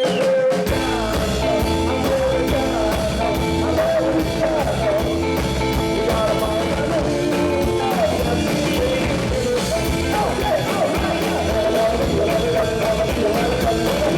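Rock and roll band playing a song, with singing over a steady drum beat, bass and guitar.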